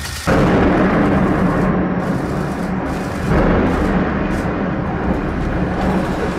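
Demolition noise: a loud rumble that starts suddenly, swelling again about three seconds in.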